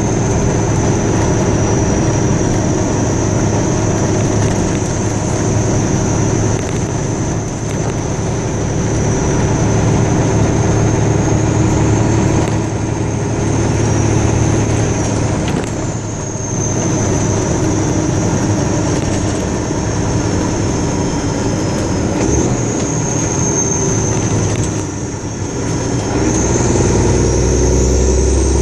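Motor vehicle running at a steady pace, with a constant low engine hum and a thin high whine that drifts up and down in pitch.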